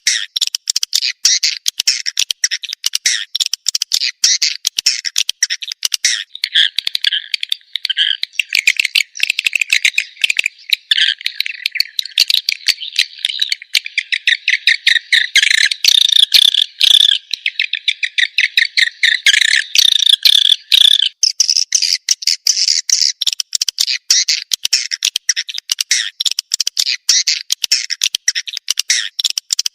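Swiftlet lure call: a recorded chorus of edible-nest swiftlets chittering in a rapid, unbroken stream of chirps. From about six seconds in, the twitter shifts lower and fuller, and a little after twenty seconds it goes back to higher, sharper chirps.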